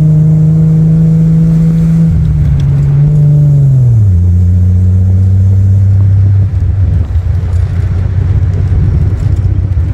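Triumph TR6's straight-six engine running under way at a steady pitch. Its note drops briefly about two seconds in, recovers, then falls to a lower steady pitch about four seconds in. It turns rougher and more uneven near the end.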